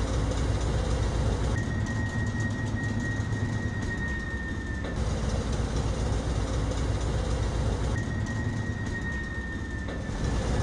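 Diesel-hauled container freight train rolling along the track: a steady low rumble from the locomotive and wagons. Twice a thin, high squeal is held for about three seconds, sagging slightly in pitch.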